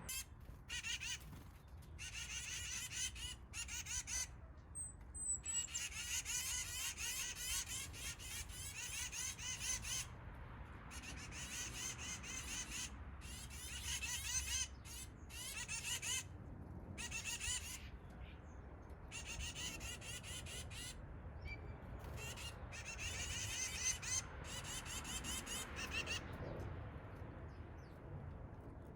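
Backyard songbirds chirping and twittering rapidly in several stretches, each broken off by a short sudden gap, over a low steady background hum.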